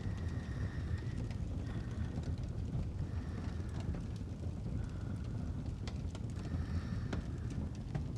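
Fireplace ambience: a wood fire crackling with scattered sharp pops over a steady low rumble.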